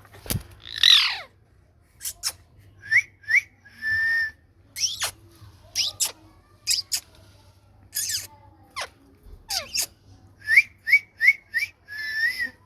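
Ringneck parakeet whistling and chirping: short rising whistles, sharp high chirps and a few held whistle notes, with a loud falling screech about a second in and a run of four quick rising whistles near the end.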